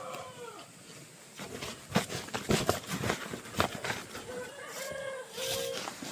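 Chickens clucking, short pitched calls near the start and again about four seconds in, with a run of sharp knocks and clatters in between.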